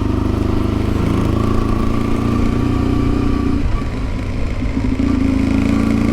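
Yamaha XTZ 750 Super Ténéré's parallel-twin engine running under way as the motorcycle is ridden. The engine note drops briefly about four seconds in, then picks up again.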